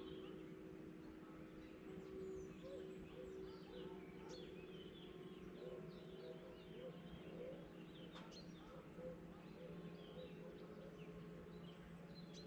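Faint chorus of small songbirds chirping and twittering throughout, over a steady low background hum.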